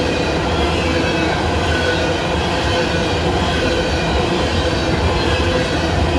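Freight train of empty coal hoppers rolling past: a steady rumble of steel wheels on the rails with a grinding, squealing ring from noisy rails.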